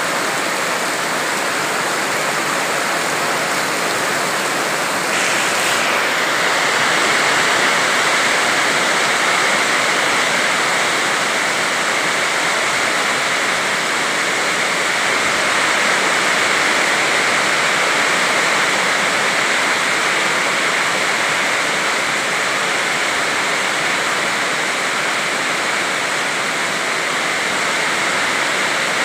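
Heavy rain pouring down in a dense, steady hiss, growing slightly louder about six seconds in.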